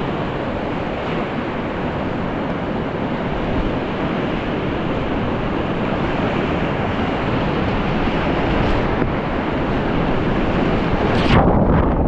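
Steady rush of whitewater in a mountain river rapid. Near the end there is a single sharp burst, after which the sound turns duller.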